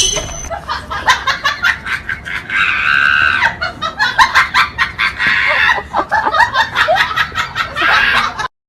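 A person laughing hard in rapid stuttering bursts, cut off abruptly near the end.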